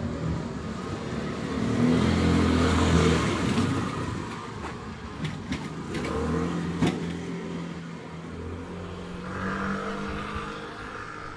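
Motor vehicles passing close by on a street: one engine grows loud and fades in the first few seconds, then a second passes more quietly. A couple of sharp clicks are heard in between.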